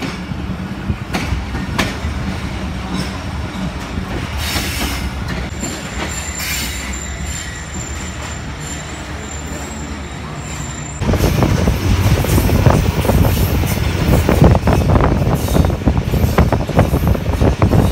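Passenger train running, heard from inside a carriage: a steady rumble of wheels on rails, with a thin high squeal partway through. About eleven seconds in, the sound suddenly gets much louder, with fast rattling clatter of wheels and carriage.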